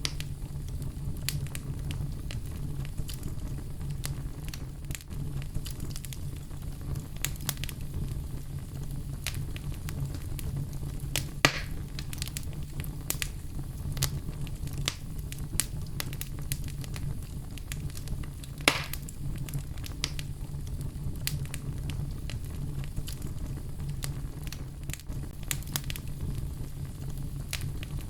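Fire crackling in a fireplace: frequent small crackles over a steady low rumble, with two louder pops about a third and two thirds of the way through.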